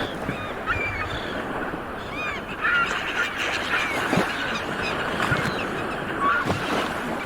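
A crowd of seabirds calling over one another, many short overlapping cries, some rising and falling, over a steady rushing background.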